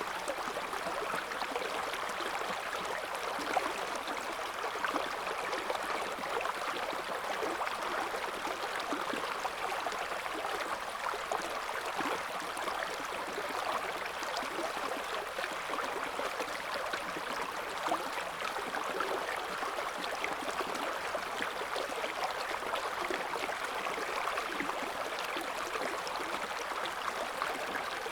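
River water flowing over a shallow bed, a steady babbling and gurgling rush with constant fine splashing.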